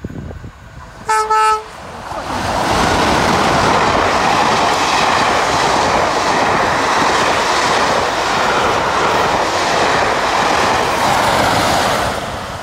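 A diesel locomotive sounds one short horn blast about a second in. Then it and its passenger coaches pass close by: loud engine and wheel-on-rail noise with clickety-clack, running for about ten seconds before dropping away near the end.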